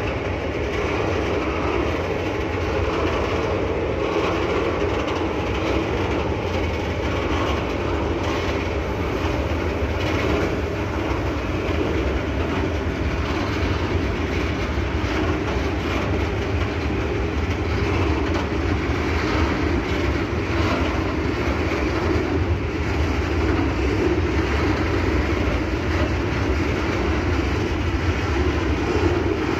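A train rolling past at a steady pace, its wheels running on the rails with a continuous rumble that holds even throughout.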